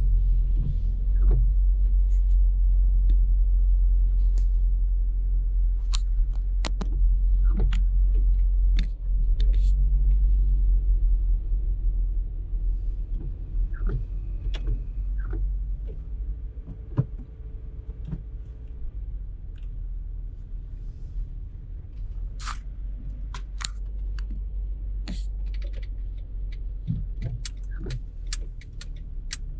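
Steady low road and engine rumble inside a moving car's cabin, louder for the first ten seconds and easing after, with scattered small clicks and ticks.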